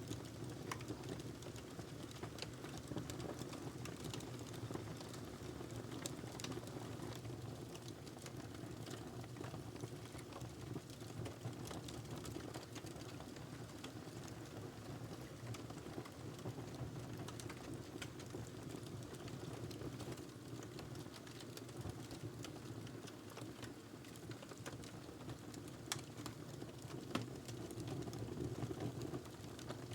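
Wood fire crackling in a fireplace: a steady low rushing with frequent small pops and snaps, and one sharper pop near the end.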